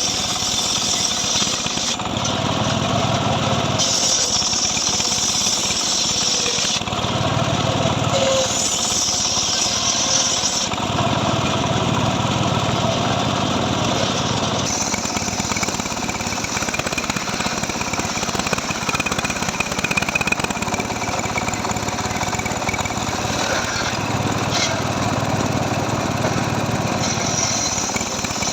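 Stihl MS 382 two-stroke chainsaw running hard while cutting dry mahogany. The engine note shifts every few seconds in the first half as the load changes, then holds steadier.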